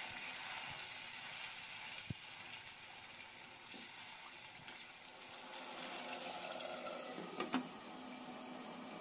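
Thin creamy gravy sizzling and bubbling in oil in a non-stick wok as a wooden spatula stirs it, with a steady hiss. A brief knock with a short ring sounds near the end, where a glass lid goes on the wok.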